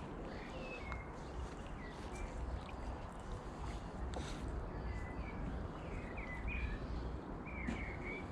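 Birds chirping outdoors, a scatter of short, curving high notes, over a steady low rumble.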